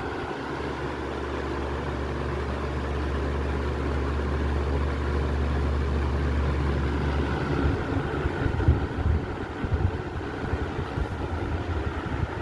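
1989 Toastmaster 20-inch box fan running on medium speed: a steady rush of air over a low motor hum. About seven seconds in, the steady hum gives way to uneven, gusty low rumbling.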